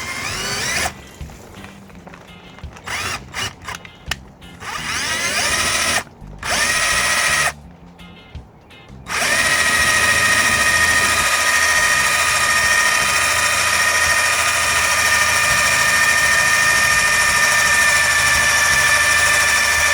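Power drill boring exploratory holes into a fiberglass boat deck to reach suspected rotten core: several short bursts, the motor whining up in pitch as it spins up, then one long steady run through the second half.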